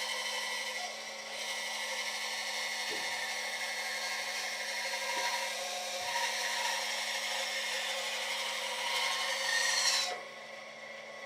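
A power tool working wood: a steady hum under continuous rough, scraping noise that drops away about ten seconds in.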